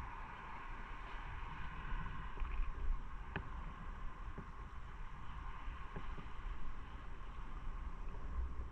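Wind rushing over the microphone on a moving motorcycle, a steady buffeting rumble with road noise underneath and a faint click about three seconds in.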